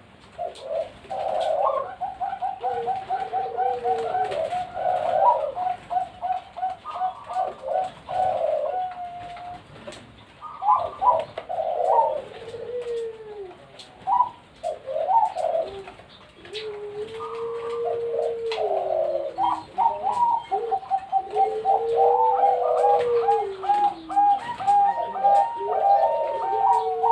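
Zebra doves (perkutut) cooing: rapid runs of short staccato notes alternate with long, drawn-out arching coos, with more than one bird calling over another at times.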